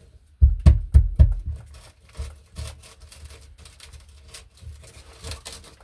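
Three thuds in quick succession about half a second in, then softer clicks, taps and rubbing: hand work at a wall outlet box with tools and hardware.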